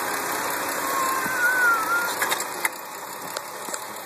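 2009 Hyundai Santa Fe engine running steadily, with a thin wavering whistle about a second in and a few sharp clicks. The level drops somewhat near the middle.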